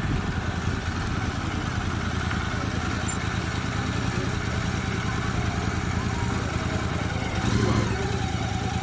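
Royal Enfield motorcycle engine running with a steady, fast-pulsing exhaust as the bike rolls in at walking pace and stops, then keeps idling. There is a brief louder spell near the end.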